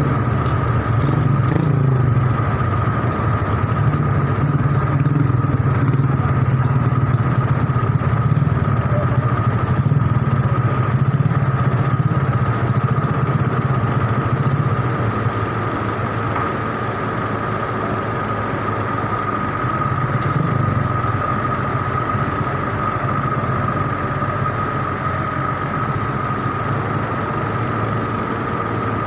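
Motor vehicle engine running steadily at low revs, with a constant high-pitched whine above it; it eases off slightly about halfway through.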